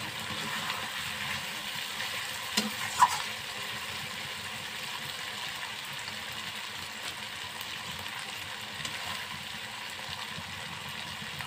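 Chicken pieces frying in oil and spice masala in a large wok, sizzling steadily while a spatula stirs and scrapes through them, knocking against the pan twice about two and a half to three seconds in.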